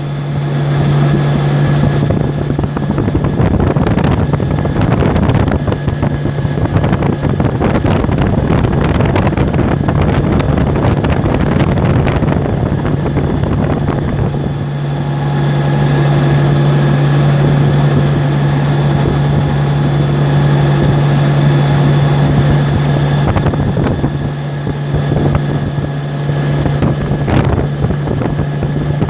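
Moving road vehicle, its engine and tyres droning with a steady low hum, and wind rushing over the microphone that swells and eases.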